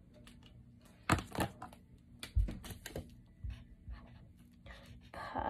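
Drawing on paper with a colouring pen: irregular light taps and knocks, with a couple of louder ones about a second in.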